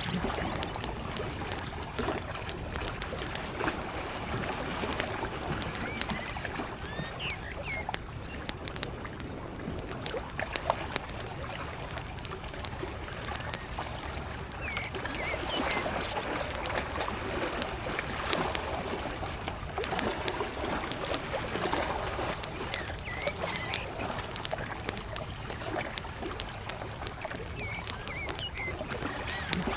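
Wood campfire crackling with frequent sharp pops, over the steady wash of small lake waves lapping at the shore. Faint bird chirps come through now and then.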